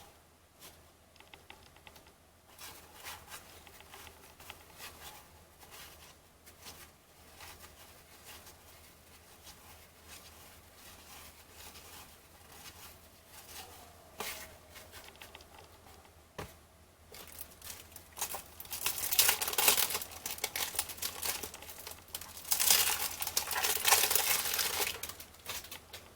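Trading cards being handled and flipped with soft clicks, then a cellophane cello-pack wrapper crinkling and tearing loudly in two bouts near the end as the pack is opened.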